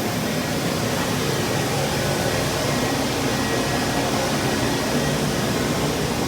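Steady rushing noise of blowing air, like a fan or blower, with a faint low hum beneath it.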